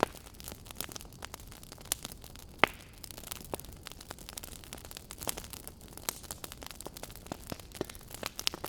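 Wood fire crackling, with irregular sharp pops over a steady low hiss of burning; one louder pop about two and a half seconds in.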